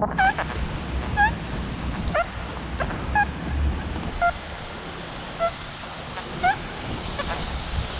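Metal detector sounding short rising beeps, roughly one a second and varying in pitch, as it sweeps over a piece of foil. Underneath is the steady hiss of heavy rain.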